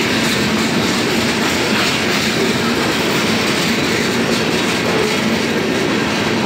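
CSX freight train rolling along the track: a steady noise of its wheels running on the rails.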